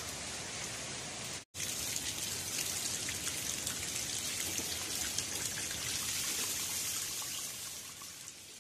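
Steady rain falling on water and wet ground, an even hiss with fine drop ticks. It breaks off for a moment about a second and a half in, then fades out near the end.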